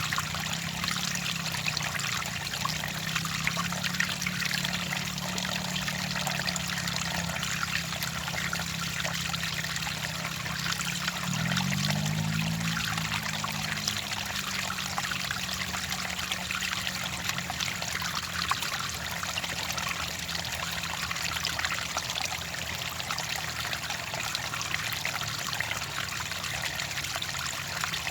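Water trickling and splashing steadily, with a low steady hum underneath that wavers in pitch briefly about 11 seconds in.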